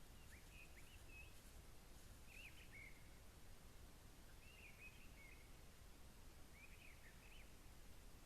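Faint, short chirping phrases of a small bird, repeated about every two seconds, over a low steady background hiss and rumble.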